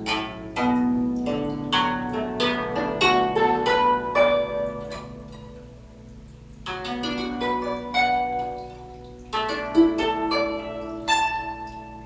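Guzheng being plucked in a melodic phrase, each note ringing and dying away. The playing eases off about halfway through, letting the notes fade, and then a new phrase begins.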